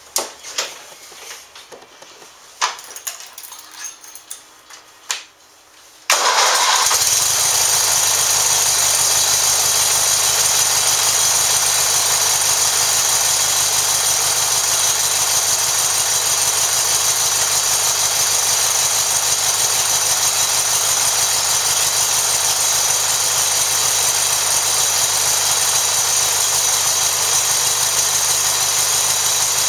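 A few clicks and knocks, then the 1994 Kgro Power Plus lawn tractor's engine starts from cold about six seconds in, catching at once and running steadily and loudly.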